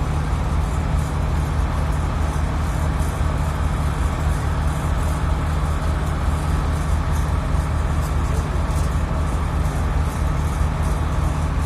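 Diesel engine of a Moskva-type river passenger motor ship running steadily under way: an even low drone with a steady hiss over it.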